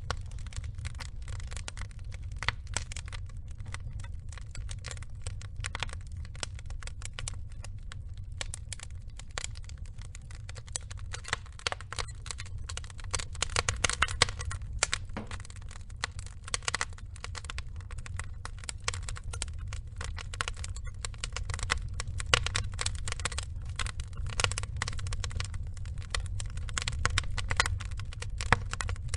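Log fire crackling: a constant scatter of sharp pops and snaps of burning wood over a low steady rumble, thicker and louder from about halfway through.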